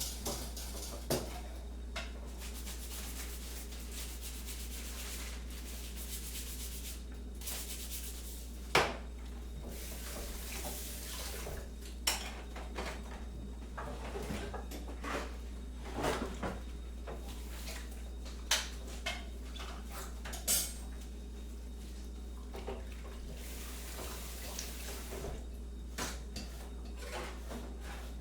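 Kitchen clatter: crockery and cutlery clinking and knocking now and then, with a few sharper clinks, over a steady low hum.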